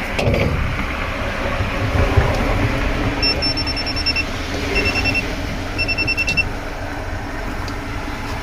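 Rapid electronic beeping in three short bursts, the first about a second long and the next two shorter, over a steady low background rumble.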